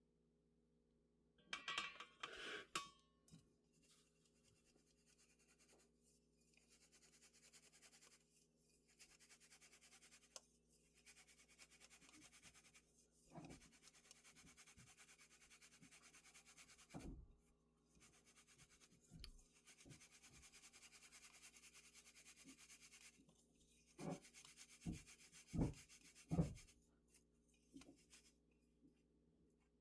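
Faint rubbing and scraping by hand, with a brief louder scrape about two seconds in and a few short soft knocks near the end.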